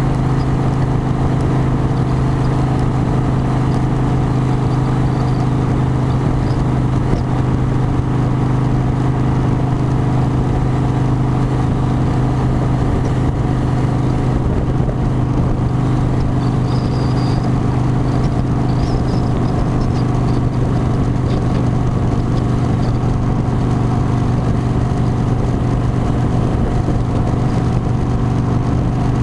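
Harley-Davidson motorcycle engine running at a steady cruising speed, a constant drone that holds unchanged throughout, with rough rumbling noise underneath.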